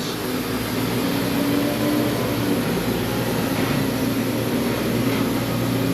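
Electric motor of a Wood-Mizer band sawmill running steadily with the blade wheels spinning free, not cutting.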